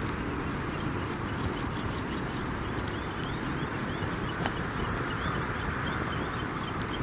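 Campfire burning: wood crackling with sharp pops over a steady low rush of flame. A rapid run of short high chirps, about five a second, from an animal joins it about a second in.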